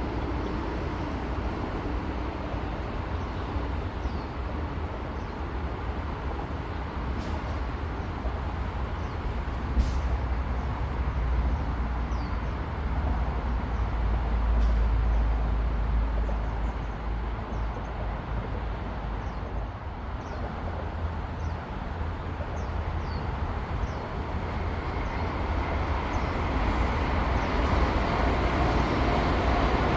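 Outdoor background noise with a steady low rumble and a few faint short chirps. Over the last several seconds a rushing noise builds steadily louder, typical of a high-speed train approaching.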